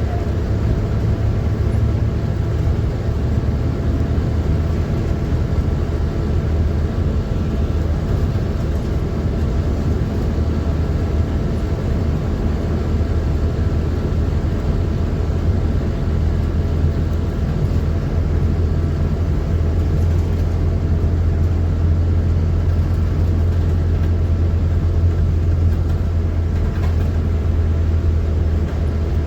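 PAZ-4234-05 bus's diesel engine running under way, heard from inside the cabin as a steady low drone mixed with road and body noise.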